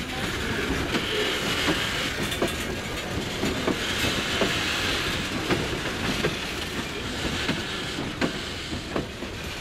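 Freight train's boxcars and hopper cars rolling past: a steady rumble with an irregular run of sharp knocks as the wheels clack over the rail joints, and a hiss that swells and fades twice.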